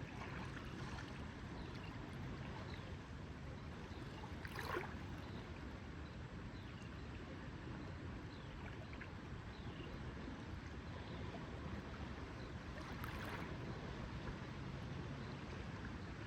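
Lakeside water ambience: a steady wash of water lapping with a low rumble under it, and two brief louder splashes, about four and a half seconds in and again about thirteen seconds in.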